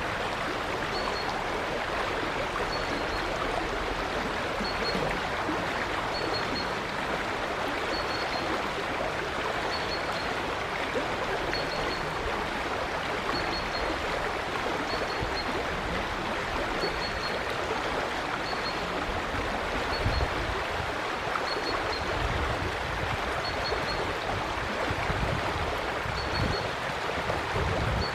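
River water flowing steadily. A bird repeats a short, high double chirp about every two seconds, and low rumbles come and go in the second half, the strongest about twenty seconds in.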